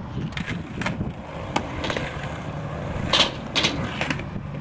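Skateboard wheels rolling on pavement, with a string of sharp clacks and knocks from the board, the loudest about three seconds in.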